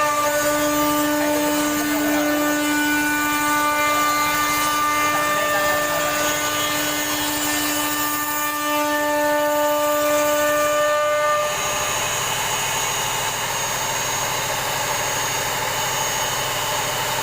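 CNC router spindle running while machining a door design, a steady whine with several pitched tones over the cutting noise. About eleven seconds in the whine drops away, leaving a rougher, steady machine noise.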